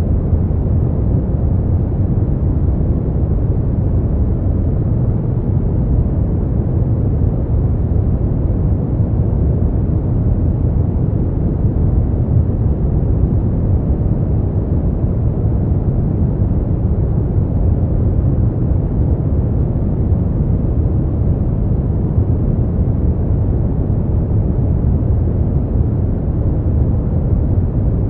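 Steady sleep noise with no change at all: a deep, muffled rumble with its weight at the bottom and no hiss in the highs, closer to brown noise than true white noise.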